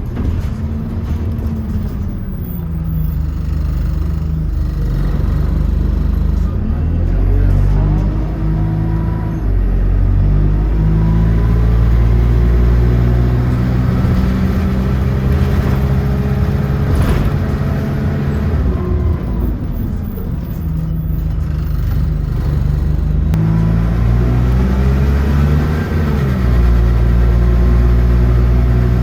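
City bus engine and transmission heard on board, pulling away and rising in pitch through the gears, dropping back at each shift, then settling and picking up again several times.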